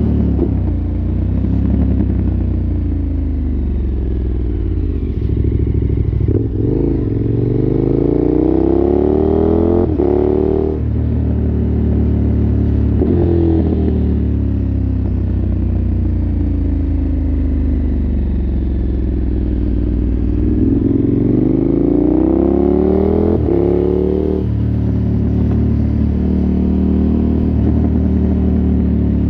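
KTM 1290 Super Adventure S's V-twin engine, through an aftermarket exhaust, running under way. Its note climbs twice as it pulls hard and drops back sharply after each climb.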